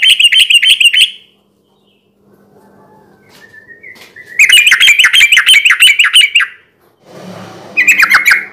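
Yellow-vented bulbul singing in loud, fast runs of repeated chattering notes, about seven or eight a second: one run ends about a second in, a longer one comes in the middle, and a short one near the end.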